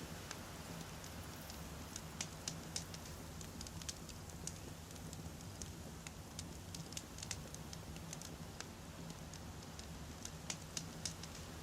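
Wood campfire burning, with irregular sharp crackles and pops over a steady low hiss.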